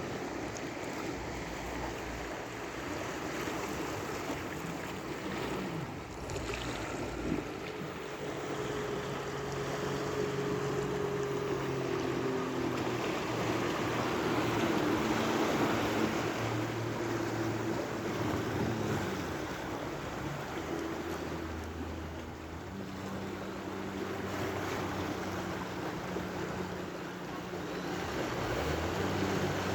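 Sea waves washing ashore, with a boat engine running offshore the whole time, its pitch shifting up and down a few times.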